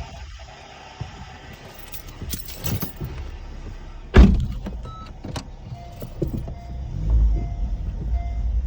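2011 Honda CR-Z, stationary, with a low rumble and scattered clicks, a loud thump about four seconds in, and the low rumble swelling near the end.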